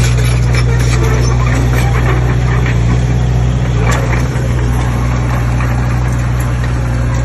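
Heavy diesel machine engine running steadily with a deep, even hum, with scattered rattling and clatter over it.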